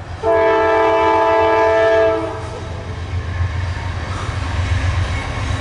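CSX diesel freight locomotive's air horn sounding one long blast of about two seconds, a chord of several notes, then the steady low rumble of the locomotives and loaded coal train rolling by.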